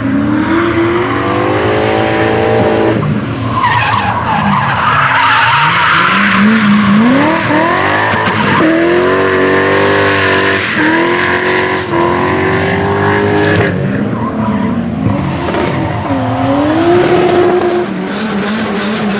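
Rally car engine revving hard, its pitch climbing and dropping again and again, with tyres skidding and squealing.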